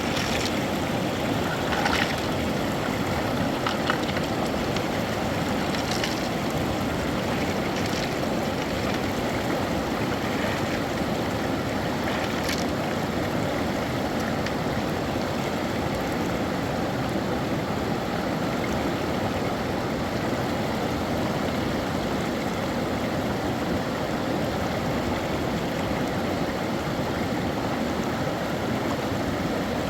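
Steady rush of flowing river water, with a few short sharp splashes or knocks in the first half.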